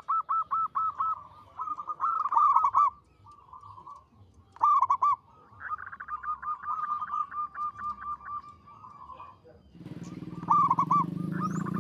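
Zebra dove (perkutut) cooing in several bouts of quick, repeated, ringing notes. A low drone comes in near the end.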